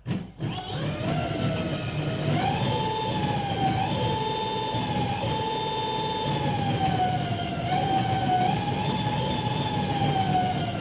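Qiyu Dakar 72V 3000W electric motorcycle's hub motor whining under throttle, driven by a newly fitted Fardriver ND72360 controller. The whine starts suddenly, climbs in pitch over the first couple of seconds, wavers up and down, and falls away slowly near the end.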